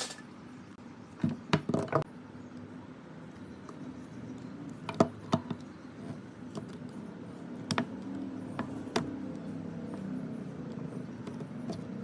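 Metal parts and hand tools clicking and knocking as they are handled, with a few sharp clicks scattered through, over a low steady hum.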